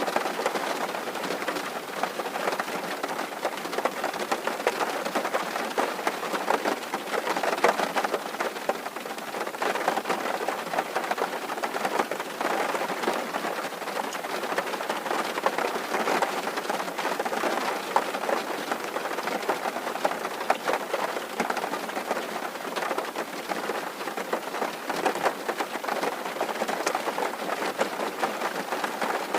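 Steady rain drumming on a tin roof, a dense continuous patter of countless small drop impacts on the metal sheeting.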